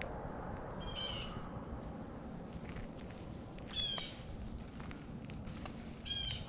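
A bird calling three times, about every two and a half seconds, each call short and harsh, over a steady low rumble.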